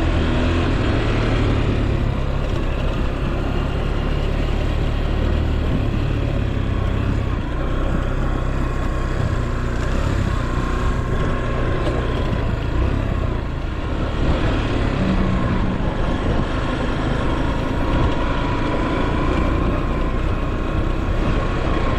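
A vehicle's engine running steadily under a rush of wind noise, with no breaks or changes in pace.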